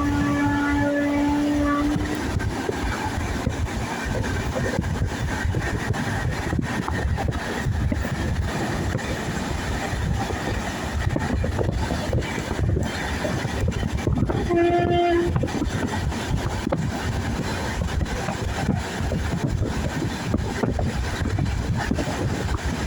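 Train running on the rails, with a steady rumble and a rapid clatter of wheel clicks. A train horn is sounding and cuts off about two seconds in, and a second short horn blast comes a little past the middle.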